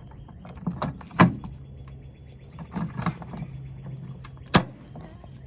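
Metal pry bar prising plastic push-pin clips out of a truck's plastic body panel: scraping and clicking, with two sharp snaps, one about a second in and one near the end.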